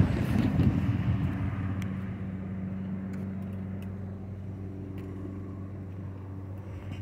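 Amtrak San Joaquin passenger train rumbling away down the track, its noise fading over the first couple of seconds as it recedes, leaving a steady low hum.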